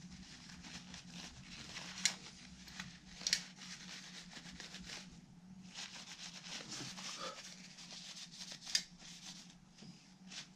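Hands working on a guitar at the bench: soft rustling and handling of small parts and tools, with three sharp clicks, over a steady low hum.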